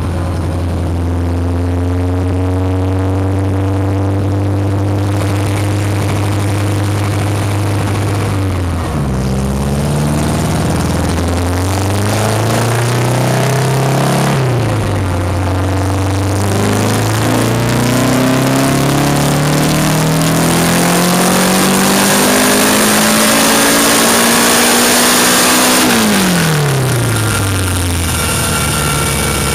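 Porsche car engine idling steadily, then revved up about nine seconds in. It then climbs in one long, steady rise in pitch for about ten seconds and falls back to idle near the end.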